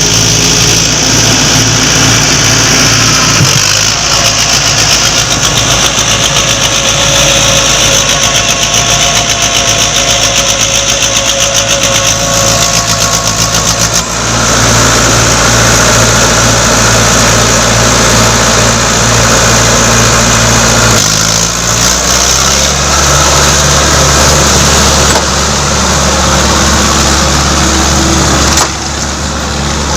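Mahindra Arjun 555 DI tractor's diesel engine running loudly, its note changing abruptly several times as the engine speed shifts.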